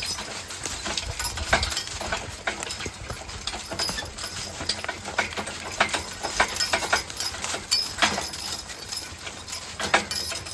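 A team of draft horses walking, their hooves clopping in an irregular run of clicks and knocks.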